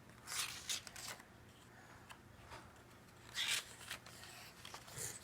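Paper pages of a picture book being handled and turned, in two short rustling bursts about three seconds apart, with a smaller rustle near the end.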